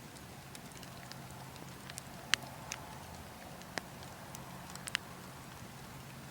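Burning logs crackling, with scattered sharp pops, the loudest a little over two seconds in, over a steady low rush of wind.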